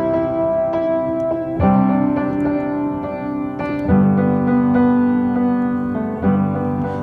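Piano music playing slow, held chords, a new chord struck about every two seconds.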